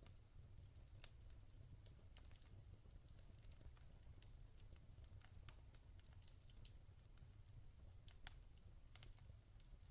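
Log fire crackling faintly, with small irregular pops and ticks over a low steady rumble; one sharper pop comes about halfway through.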